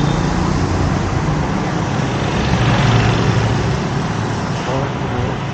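Road traffic passing close by: motor vehicle engines and tyre noise, swelling about halfway through and easing off near the end.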